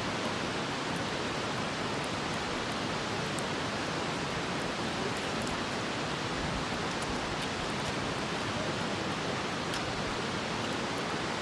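Steady, even rushing noise with a few faint, scattered small crackles.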